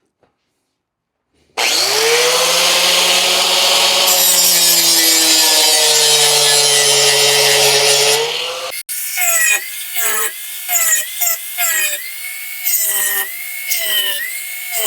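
A power tool spins up about a second and a half in and cuts through material with a loud steady noise for about seven seconds, then stops. A drill then runs in short repeated bursts, its motor pitch wavering with each squeeze of the trigger.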